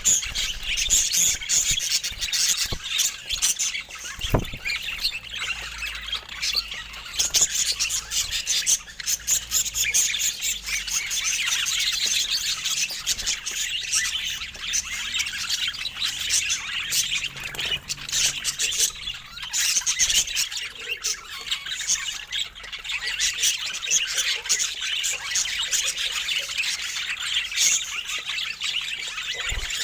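Several budgerigars chattering, with continuous rapid chirps, warbles and squawks. There is a brief thump about four seconds in.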